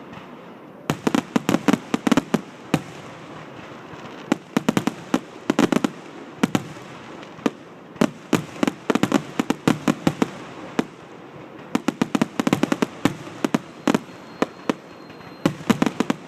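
Fireworks finale: rapid volleys of sharp bangs in dense clusters, starting about a second in, with short lulls between the clusters.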